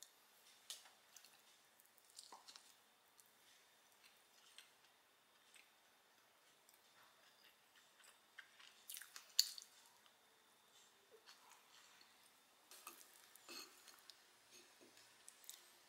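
Faint close-miked chewing of soft cream-cheese-filled bread: scattered wet smacks and small clicks, the loudest about nine seconds in. Near the end a wooden spoon scoops cereal out of milk.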